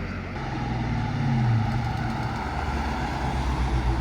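A car's engine and exhaust running at low revs, rising slightly about a second in, then holding steady.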